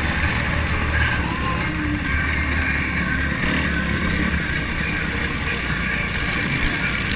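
Motocross bike engine running steadily, heard through a bike-mounted onboard camera.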